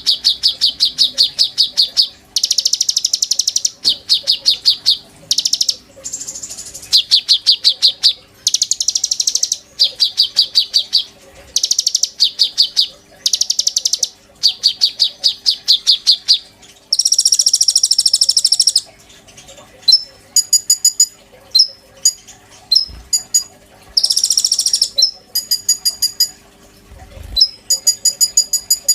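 A konin songbird singing loudly: bursts of very rapid, high-pitched trills, each about a second long, repeated with short pauses; in the last third it changes to sharp whistled notes and buzzy phrases.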